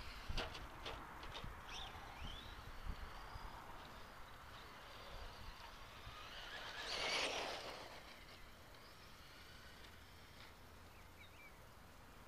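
RC stadium truck running on a dirt track, passing close to the microphone about seven seconds in, with a few sharp knocks near the start.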